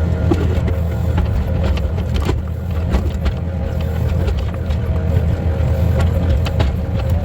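A machine runs steadily with a low drone, with scattered sharp knocks and cracks over it, as a breaker with a chisel bit works on oak logs to split them for firewood.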